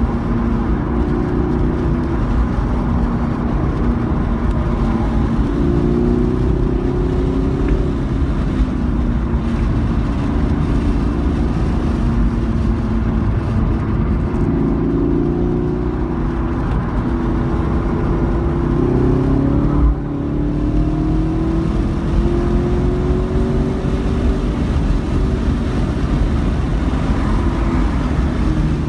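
Chevrolet V8 engine heard from inside the cabin, held in third gear on a road course, its pitch rising and falling repeatedly as the driver accelerates out of corners and lifts into them, between about 3,400 and 5,200 rpm. Tyre and road noise run underneath.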